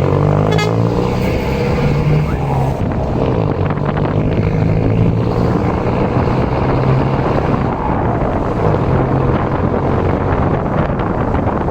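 Mercedes-Benz LO 916 bus's OM924LA four-cylinder diesel engine and exhaust running steadily, the engine note holding a fairly even pitch with small rises and dips.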